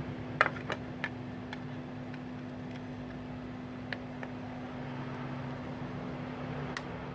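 About seven small, sharp clicks spread unevenly, the loudest just under half a second in, over a steady low hum and background noise.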